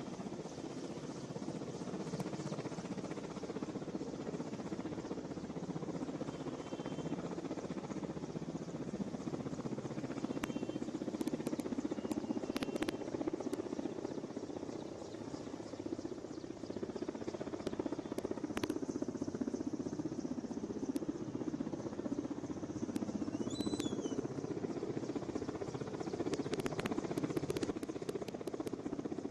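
Helicopter hovering: a steady drone of rotor and engine. A few brief high beeps and ticks come and go over it.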